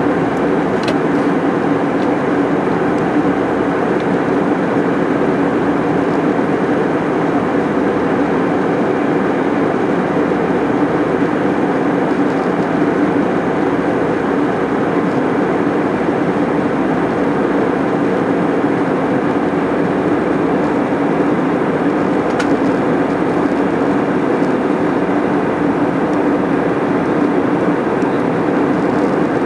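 Airliner cabin noise in flight: the steady rush of engines and airflow heard from inside the passenger cabin, unchanging throughout.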